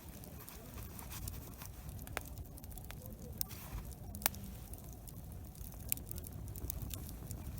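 Wood campfire crackling, with scattered sharp pops, the loudest a little past halfway, over a low steady rumble.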